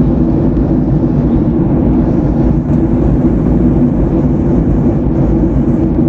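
Jet airliner's engines and airflow heard from inside the cabin: a loud, steady low rumble.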